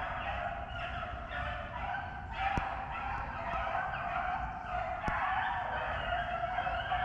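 A pack of rabbit hounds baying in full cry on a rabbit's trail, a steady chorus of overlapping dog voices, with a couple of sharp clicks about two and a half and five seconds in.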